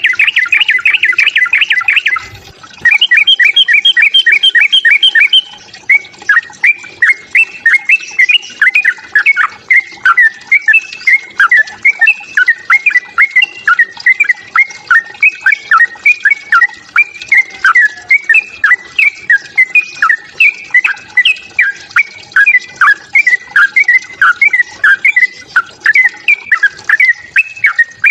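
Yellow-vented bulbul (trucukan) fighting calls. Two bursts of fast chattering come in the first five seconds, then a long run of short down-slurred notes at about two a second.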